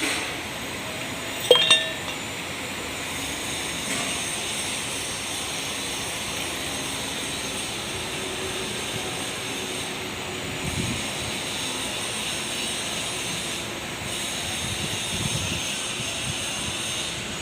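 Steady mechanical drone with two sharp metallic clinks close together about a second and a half in.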